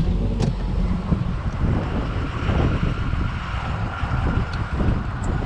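Street-legal monster truck's engine and road noise, a steady low rumble while it is being driven.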